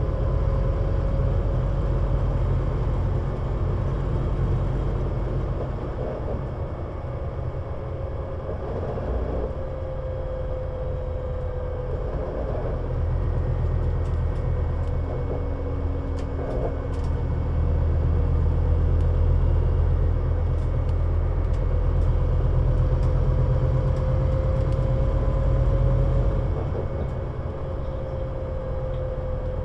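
Scania Citywide LFA city bus running along with a steady low engine rumble and a thin drivetrain whine that drifts slightly in pitch. It gets a little louder for a stretch past the middle.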